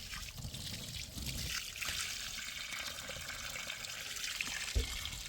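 Water running and trickling steadily, with a short low thump near the end.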